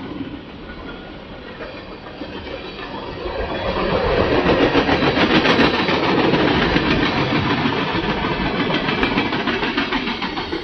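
Train rolling past on the main line, its wheels clicking rapidly over the rails. The sound grows louder from about two seconds in, then holds steady.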